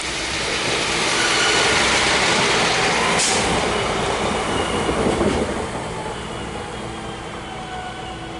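A train passing through a station: a loud rush of wheels on the rails that swells and then eases off, with thin squealing tones from the wheels.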